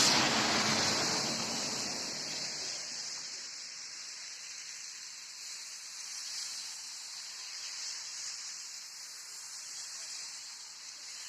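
Steady hiss of falling rain, fuller and louder in the first couple of seconds, then settling to an even level.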